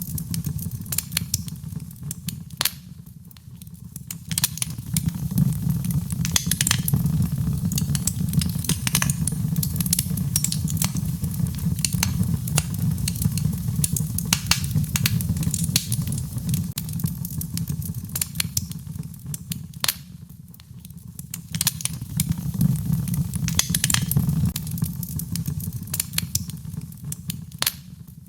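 Wood fire crackling, with frequent sharp pops and snaps over a low rumble of burning that swells and fades, briefly quieter about three seconds in and again around twenty seconds in.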